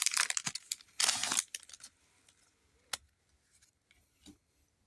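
Foil booster pack wrapper crinkling as it is opened, lasting about a second and a half. Then it goes quiet apart from one sharp click about three seconds in and a few faint ticks.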